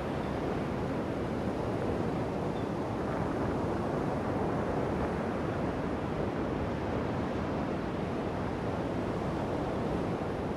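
Steady rushing of coastal wind and surf: an even noise without distinct events.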